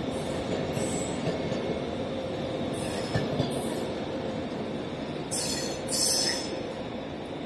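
ÖBB Railjet passenger train rolling slowly out of the station with a steady rumble from its wheels on the track. Short high wheel squeals come about five and six seconds in.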